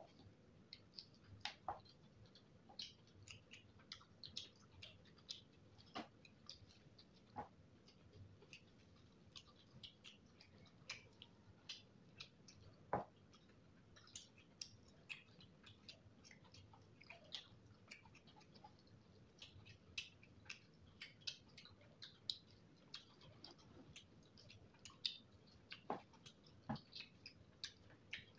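Close-miked chewing and mouth sounds while eating fried chicken by hand: a steady run of small wet clicks and smacks, with a few louder ones, the loudest about halfway through.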